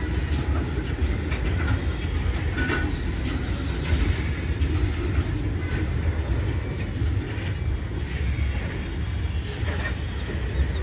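Goods train of BTPN tank wagons and a BVCM brake van rolling past: a steady low rumble of steel wheels on the rails, with scattered clicks from the wheels crossing rail joints.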